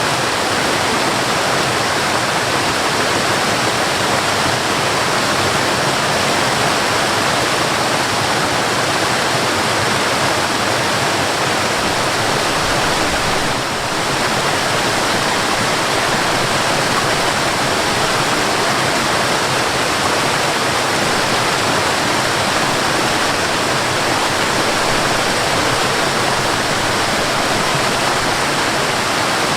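Mountain waterfall: a steady, even rush of falling, splashing water, dipping slightly for a moment about halfway through.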